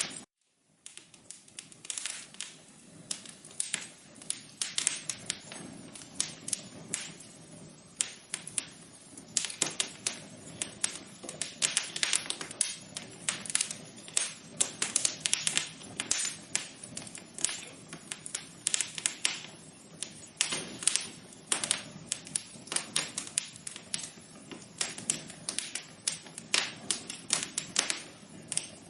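Wood fire in an outdoor fireplace crackling: irregular sharp pops and snaps over a low steady hiss. The sound cuts out for a moment right at the start, then resumes.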